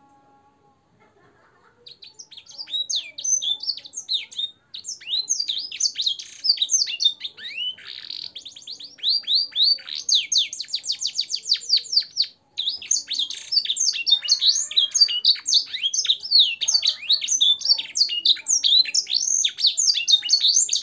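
Domestic canary singing a long, fast, varied song of rapid trills and sweeping notes, its song filled with phrases copied from blackthroat and sanger birds. It begins about two seconds in, breaks off briefly twice, and stops suddenly at the end.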